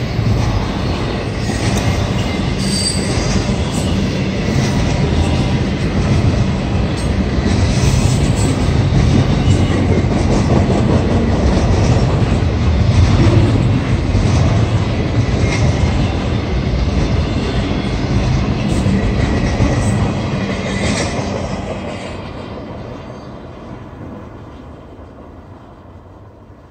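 Double-stack intermodal container cars of a freight train rolling past close by, steel wheels running on the rails with a few brief high-pitched squeals. The noise fades steadily over the last few seconds as the end of the train moves off.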